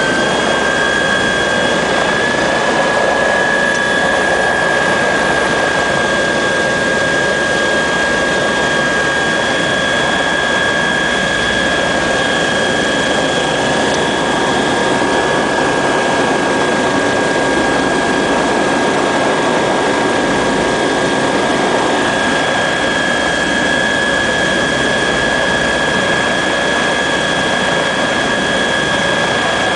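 Helicopter turbine engine running with a high whine that rises in pitch and levels off at the start, then holds steady over a constant rushing noise.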